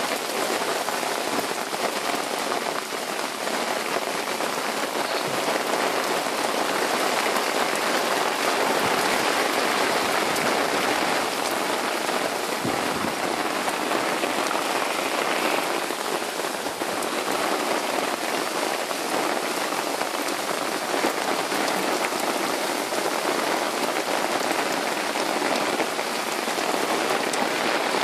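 Rain falling steadily during a thunderstorm, an even, unbroken patter.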